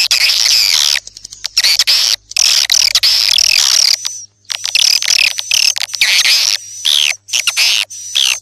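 Swiftlet call-sound recording: dense runs of swiftlet chirping and twittering, each about a second long, with short gaps between them. This is the kind of lure track played to draw swiftlets into a nesting house.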